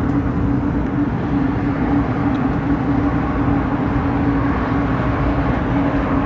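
Airliner jet engine noise: a steady, loud rumble with a constant low hum throughout.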